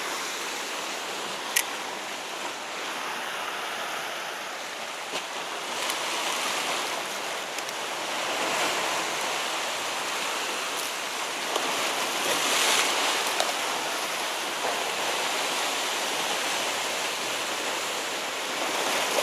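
Sea waves washing against a rocky shore: a steady rushing that swells and eases several times, with one sharp click about one and a half seconds in.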